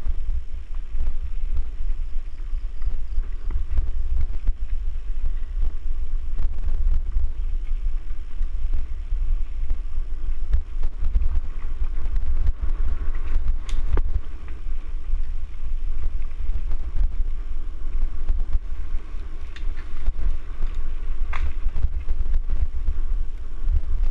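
Wind buffeting the microphone of a camera carried on a mountain bike ride: a steady, loud low rumble with trail noise underneath. A few sharp clicks cut through, the clearest about halfway through and another near the end.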